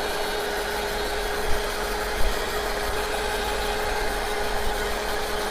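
Heat gun blowing steadily with a constant whine, shrinking heat-shrink tubing onto the end of a wire, with a couple of light knocks.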